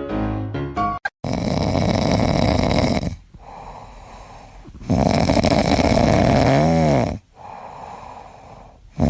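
Loud snoring in long rasping breaths, one about every four seconds, with quieter breathing between them. Piano music cuts off suddenly about a second in, just before the snoring begins.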